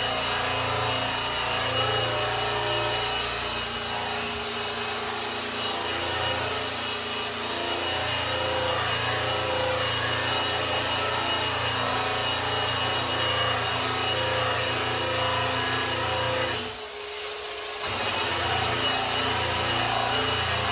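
Electric polisher running steadily, its pad rubbing over a grand piano's lacquered finish, with a steady motor hum under the scrubbing noise. About three-quarters of the way through, the hum cuts out for about a second and then comes back.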